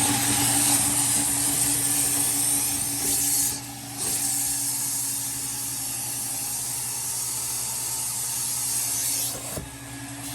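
Carpet-cleaning machine running: a steady motor hum under a strong hiss, dipping briefly twice, about a third of the way in and near the end.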